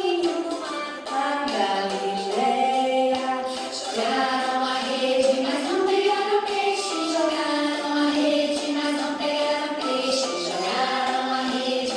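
A group of voices singing a song together, with little or no accompaniment.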